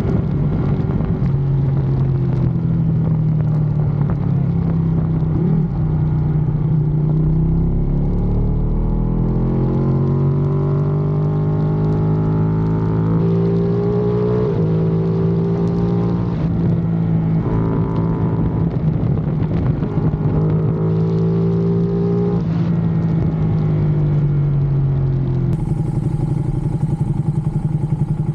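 Motorcycle engine running under way, its pitch holding steady, then climbing and dropping back several times as the rider works the throttle and changes gear, with wind rumble underneath.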